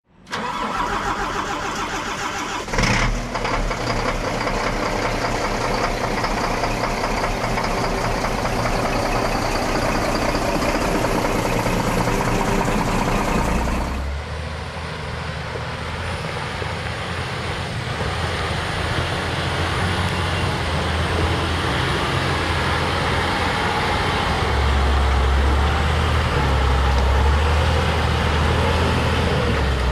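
Scania R480 timber truck's diesel engine running steadily, with a sharp loud bang about three seconds in. Around halfway the sound changes abruptly to a deeper, steady engine drone that grows louder near the end.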